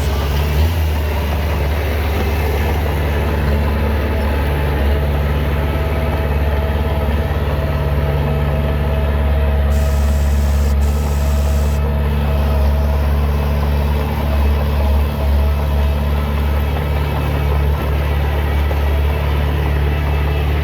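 Heavy diesel engine of earth-moving machinery running steadily, a low, even engine hum.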